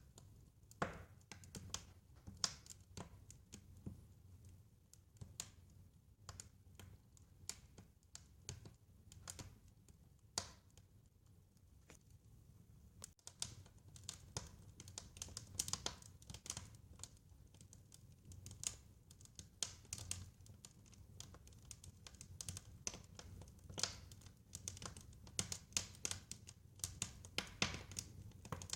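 Wood fire crackling, with irregular sharp pops and snaps several times a second over a soft low rumble.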